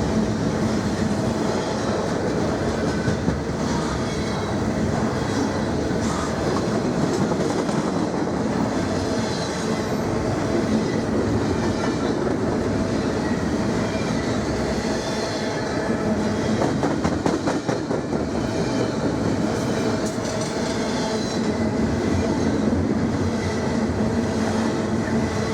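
Canadian National intermodal freight train rolling past, a steady rumble of steel wheels on the rails with some clatter over rail joints.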